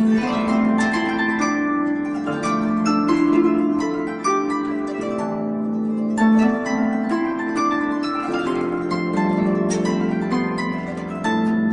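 Harp playing an instrumental interlude in a Kurdish song: a run of plucked notes that ring and fade, over held low notes.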